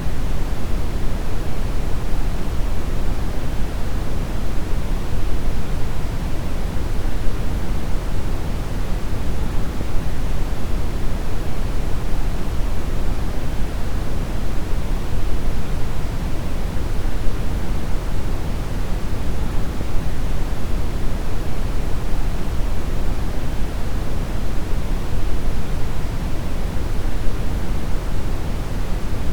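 Steady brown noise: a constant, deep rushing hiss with its weight in the low end, unchanging throughout.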